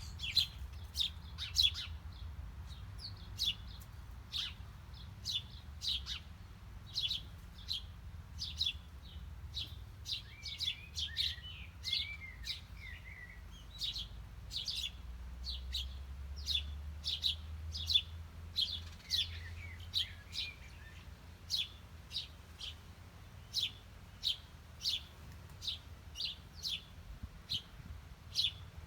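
Small birds chirping: a steady run of short, sharp chirps, one or two a second, with bursts of softer twittering in between, over a faint low rumble.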